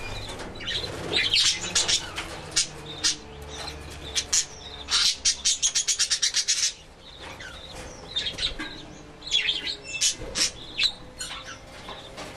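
A flock of budgerigars chirping and chattering in an aviary, with a fast run of sharp notes about five seconds in.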